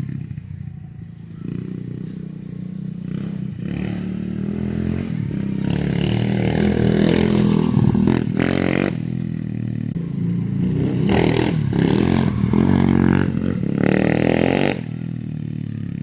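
Mini bike engine running and being revved, its pitch rising and falling in surges as it is ridden; the loudest pushes come through the middle and in a few short throttle bursts later on, dropping back to a lower note about a second before the end.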